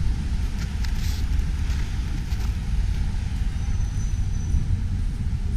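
Wind buffeting the microphone in a snowstorm, a steady low rumble, with faint footsteps in snow about every half second during the first half.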